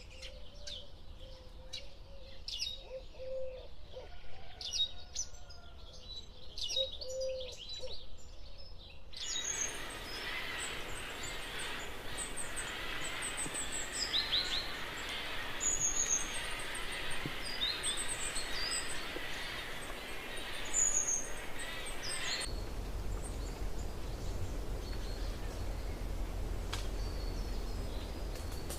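Several small birds chirping and calling in quick, high notes. About nine seconds in, a steady hiss rises under the calls, and past the middle a low rumble joins the background.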